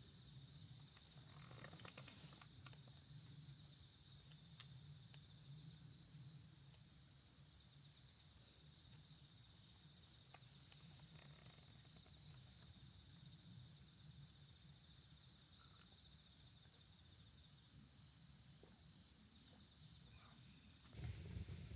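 Crickets chirping faintly in a steady, even, high-pitched rhythm, over a low steady background rumble.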